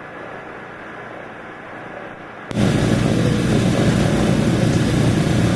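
Off-road racing engines at a start line: a fairly quiet engine noise that jumps abruptly about halfway through to loud engine noise close by.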